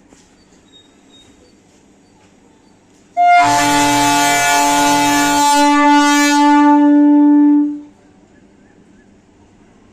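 MEMU electric multiple unit's air horn sounding one long blast of about four and a half seconds as the train departs. The higher tones stop about halfway through while a lower tone holds on to the end of the blast.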